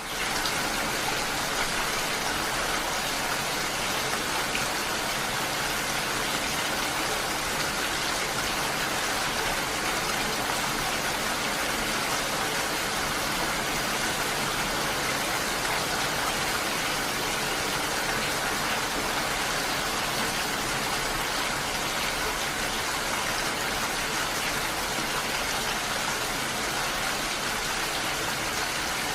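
Steady rainfall, a dense even patter without a break.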